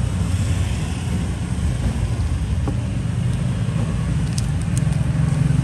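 Steady low rumble, with a few faint light clicks about four and a half seconds in.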